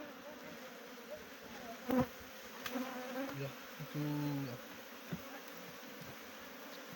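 Honeybees buzzing around an opened hive, a steady hum with a few louder passes close by, and a sharp click about two seconds in.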